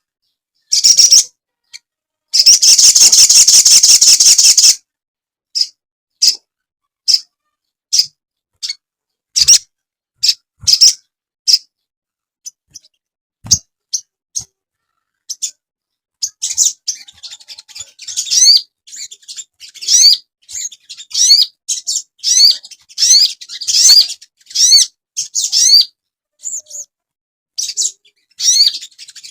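Recorded calls of a sogon bird. The calls open with a loud, dense buzzy trill of about two seconds. Sharp single chirps follow, spaced out. From about halfway on comes a fast run of short rising whistled notes.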